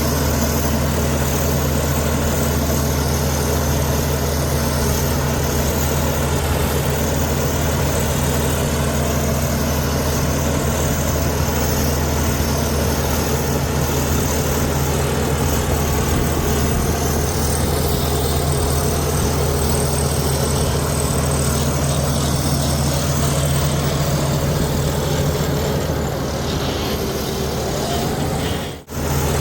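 Bulldozer's heavy diesel engine running steadily. The sound cuts out briefly near the end.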